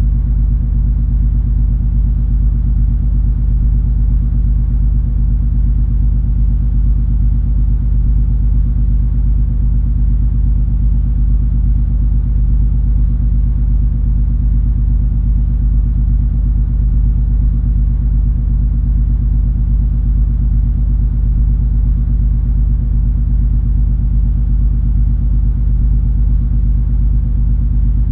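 Steady low rumble of the cruise ferry MS Color Magic under way, with a constant engine drone and a few low hums that never change.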